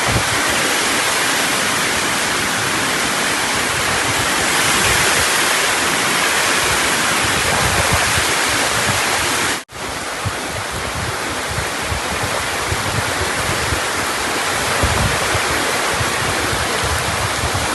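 Heavy rain pouring down in strong wind, a loud steady hiss. It breaks off for an instant about ten seconds in, then carries on a little quieter.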